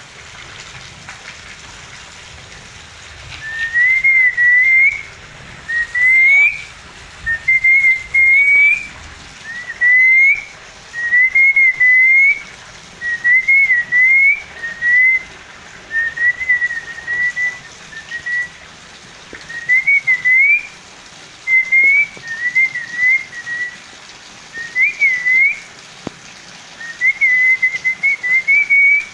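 A parrot whistling: a clear single-toned whistle in short wavering phrases of about a second each, many ending on an upward slide, repeated over and over with brief pauses.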